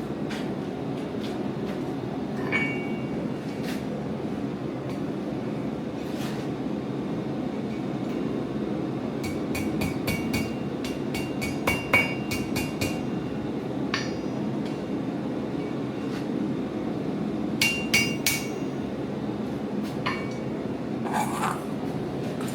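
Hand hammer striking metal on an anvil: scattered single blows, a quick run of about a dozen ringing strikes around the middle, and a short burst of three or four near the end, over a steady low rumble.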